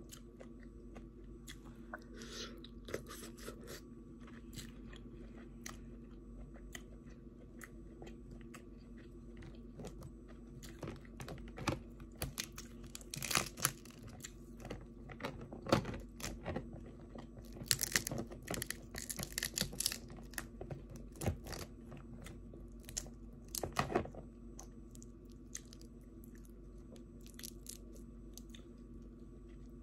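A person chewing and biting seafood close to the microphone: irregular crunchy, wet mouth sounds, thickest through the middle stretch, over a steady low hum.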